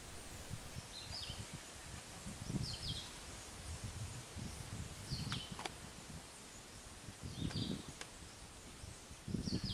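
Outdoor ambience in which a bird repeats a short, high two-part chirp about every two seconds, five times. Light handling knocks and a couple of sharp clicks sit underneath.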